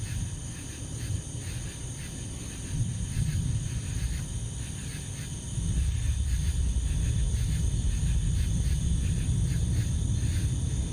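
Deep thunder rumbling from a nearby lightning strike, building about three seconds in and growing louder about halfway through. Steady high insect chirring runs underneath.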